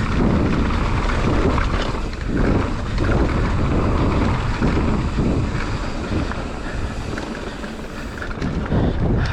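Wind buffeting a mountain biker's camera microphone while the bike rolls fast down a rough trail, with a steady rumble and repeated knocks as the bike goes over bumps.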